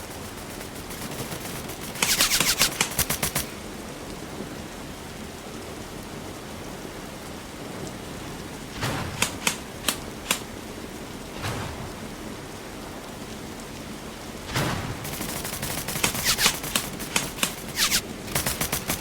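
Airsoft guns firing: a rapid burst of shots about two seconds in, a few single shots around the middle, and repeated rapid bursts through the last few seconds.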